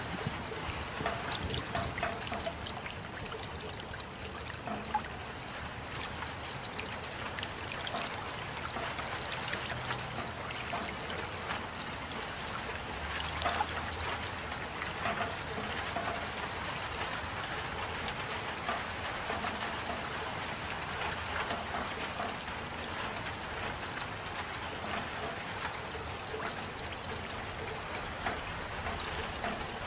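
Steady rain with water trickling: many small drop ticks scattered over an even hiss.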